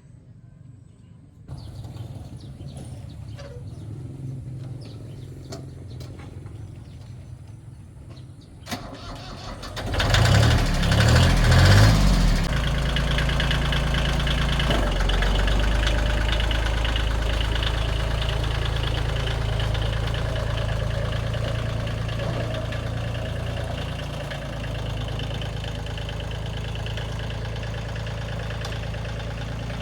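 The car's engine starts about ten seconds in, with a loud pulsing burst as it catches and revs for about two seconds. It then settles into a steady idle. Before the start there is a low hum with a few clicks.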